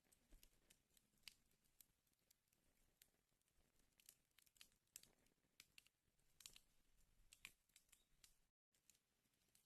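Faint crackling of a wood fire burning in a fireplace: irregular sharp snaps and pops, several a second, over a soft hiss. The sound cuts out completely for a split second near the end.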